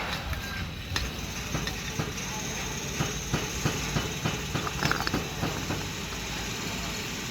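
A machine engine running steadily, with a run of irregular sharp knocks and clatters from about a second and a half in until about five and a half seconds.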